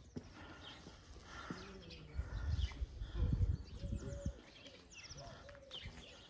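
Small birds chirping in short high notes, with a run of low thumps about two to four seconds in.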